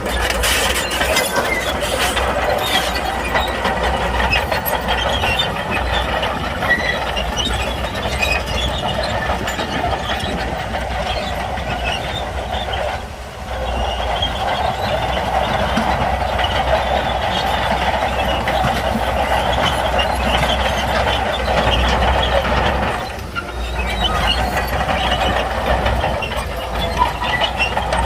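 Shantui crawler bulldozer at work: the diesel engine runs under a steady metallic clatter and squeal from the steel tracks. The sound eases off briefly twice.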